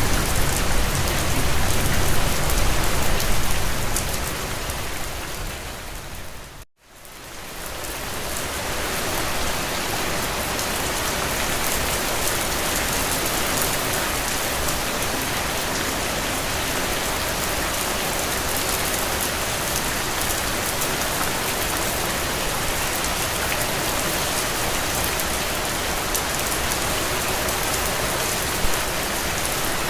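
Steady rain on a window, an even hiss of drops. About seven seconds in it fades down to a brief moment of near silence and fades back up, a splice in the looped recording, and it runs steadily again with one slightly louder drop near the end.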